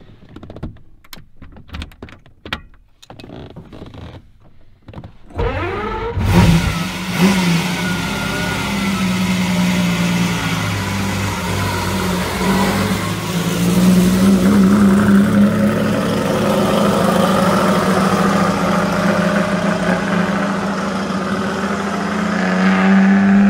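Ferrari 250 Europa Vignale's V12 engine: a few sharp clicks, then the engine catches about five seconds in with a quick rev. It then runs on under way, the revs rising and falling.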